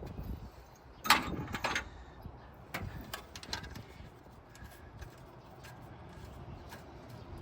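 A few sharp metal clinks and knocks from hand work on an exhaust manifold's bolts and parts, the loudest about a second in, then scattered quieter taps.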